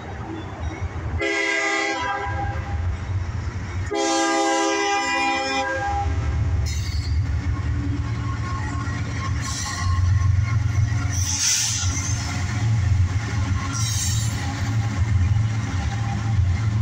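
Diesel freight locomotive's air horn sounding twice, a short blast then a longer one. Then the locomotive's engine rumbles past with the rail cars' wheel noise, getting louder after about ten seconds.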